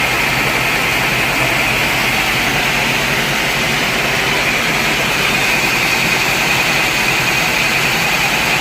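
Sawmill machinery running with a loud, steady, unbroken mechanical noise.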